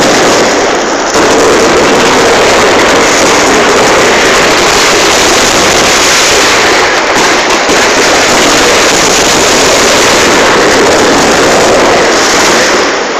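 Fireworks display bursting in a dense, continuous barrage, very loud on the recording.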